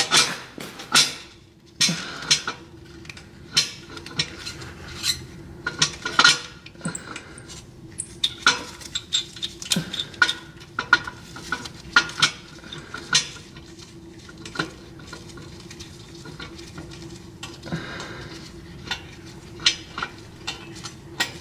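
Irregular metallic clinks and taps of hand tools and nuts being threaded onto exhaust header studs, with a faint steady hum underneath.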